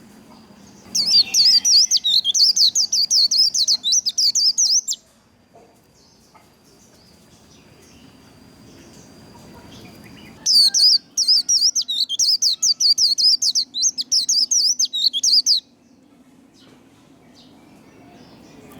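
White-eye (vành khuyên) singing its fast, twittering 'líu' song, the competitive 'líu đấu' song kept birds are trained to give. It sings two bursts of rapid high-pitched notes, each about four to five seconds long, with a pause of several seconds between them.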